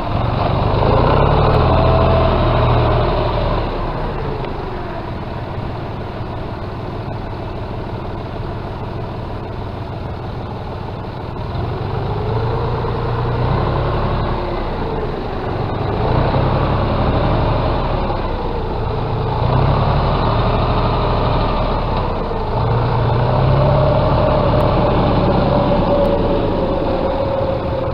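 John Deere 5205 tractor's diesel engine running, its level and pitch rising and falling several times.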